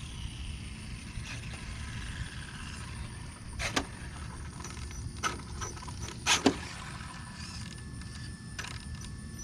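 Steady low rumble with a few sharp clicks and knocks, the loudest pair about six seconds in.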